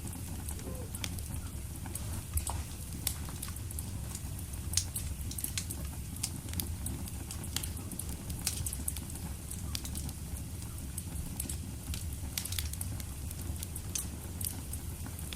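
Wood fire crackling in a fireplace: frequent sharp pops and snaps scattered irregularly over a steady low rumble of the flames, with one louder pop about five seconds in.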